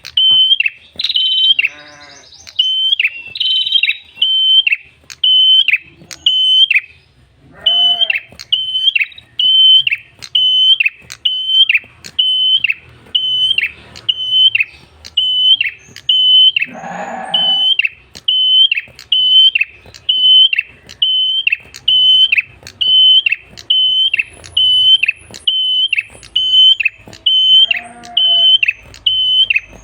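Tailorbird (prenjak kepala merah) calling: a short, sharp, high note repeated steadily about one and a half times a second, in long runs with a brief pause about six seconds in. A few lower, harsher calls break in now and then, the loudest about seventeen seconds in.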